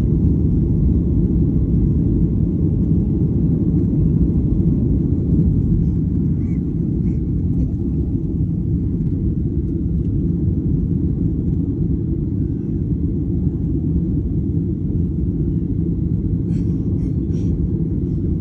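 Steady low rumble of a jet airliner's engines and airflow heard inside the passenger cabin during takeoff and climb. It eases slightly about six seconds in, and a few faint clicks come near the end.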